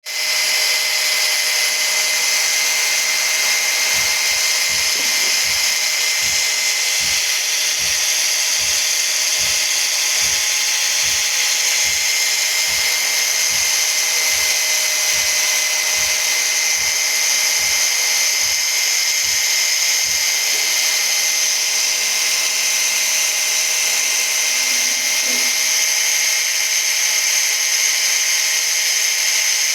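Small brushed DC motor running at high speed under test, giving a steady high-pitched whine. A soft low thump repeats about twice a second through the first two-thirds, then stops.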